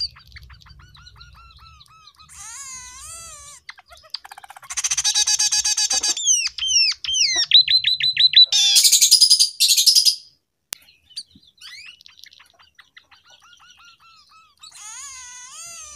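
Scaly-breasted munia singing a learned canary-style song: a varied run of whistled trills and quick repeated sweeping notes, with two loud rolling trills about five and nine seconds in.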